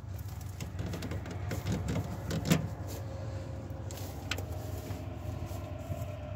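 Four-cylinder diesel car engine running steadily at idle, with a sharp click about two and a half seconds in and another a little after four seconds.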